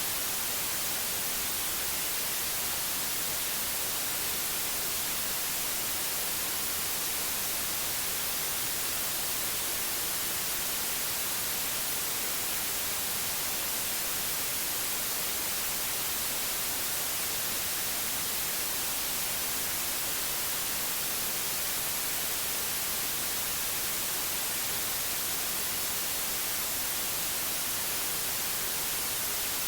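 Steady, unchanging white noise hiss, brightest in the treble.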